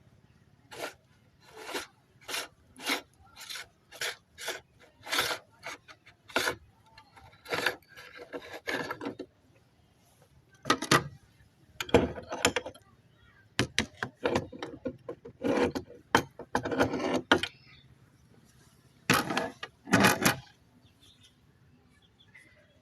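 Meat grinder grinding tomatoes in short, separate strokes, about two a second at first, then in irregular bunches with pauses between them.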